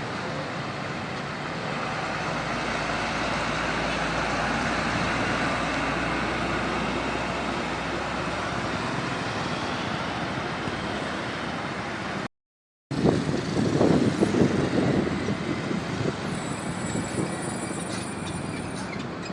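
Heavy road traffic: trucks and other vehicles passing on a highway, a steady mix of diesel engines and tyre noise. About twelve seconds in the sound cuts out for a moment, then a louder, rougher engine sound of a truck passing close by follows.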